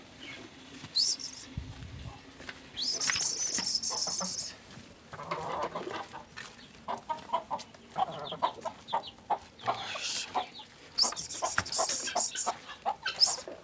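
Chickens clucking, with shrill squawks breaking out several times, as they are chased and herded back into their coop; scattered short rustles and steps among them.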